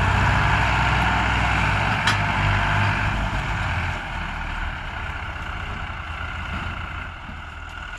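Tractor diesel engine running steadily, growing fainter after about four seconds, with one sharp click about two seconds in.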